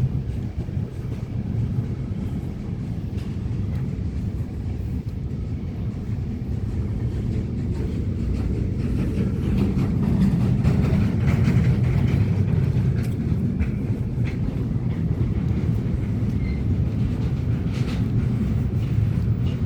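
A train passing: a steady rumble that swells and peaks a little past halfway through.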